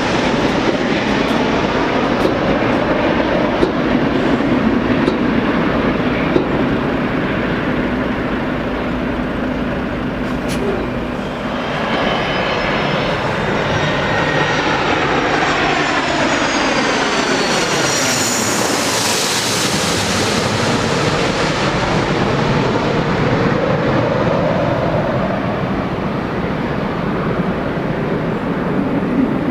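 Jet airliner passing close by on its landing approach: steady jet noise, with the engines' high whine falling in pitch as it goes past, a little over halfway through.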